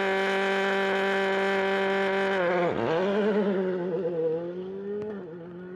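Rally car engine held at steady high revs. About two and a half seconds in, the revs dip sharply and pick back up, and the engine runs on more quietly, wavering in pitch.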